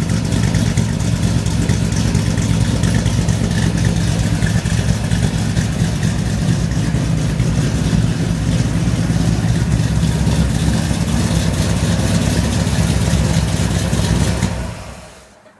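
1962 Chevy Impala's 327 small-block V8 with a four-barrel Holley carburettor, idling steadily while still cold and sounding pretty good; the sound fades away near the end.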